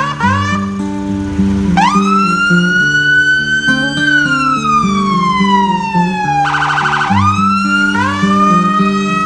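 Background music with a repeating low melody, under a siren-like gliding tone. The tone sweeps up and levels off several times; the longest sweep climbs for about two seconds, then slowly falls. A short rapid warble comes about six and a half seconds in.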